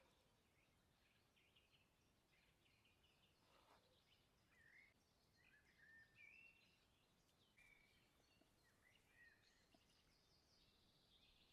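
Faint birdsong: scattered short chirps and brief gliding whistles from songbirds, a little louder about six seconds in, over a very quiet background hiss.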